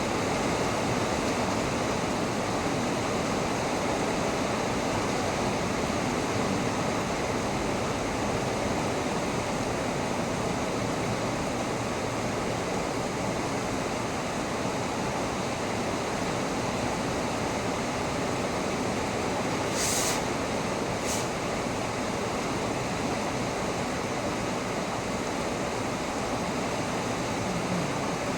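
Heavy rain falling in a steady downpour. Two brief sharp ticks stand out about two-thirds of the way through.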